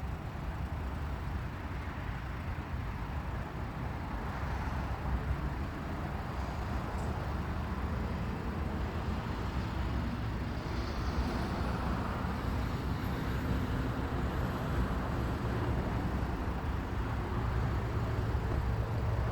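Steady outdoor rumble and hiss, strongest in the low range and holding level throughout, with no clear single event standing out.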